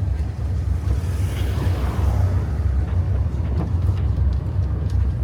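Steady low rumble of the Tchou Tchou sightseeing train driving along, heard from on board.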